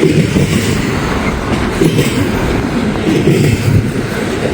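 Norfolk Southern freight train's cars rolling past on the rails, with wind buffeting the microphone.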